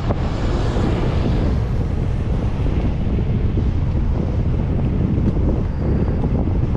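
Steady wind buffeting the microphone of a camera riding along on a moving bicycle, a dense low rumble.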